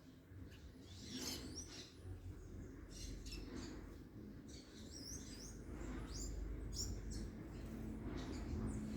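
Small songbirds chirping: scattered short, high chirps and quick downward-sweeping notes, most of them bunched in the middle, over a low rumble.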